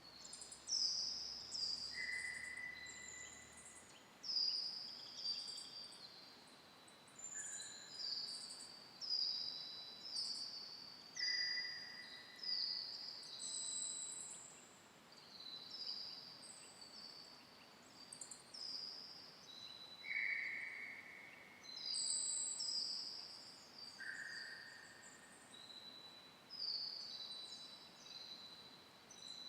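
Several forest birds singing at once: many short, high, falling notes overlapping without a break, with a lower, longer whistled note every few seconds.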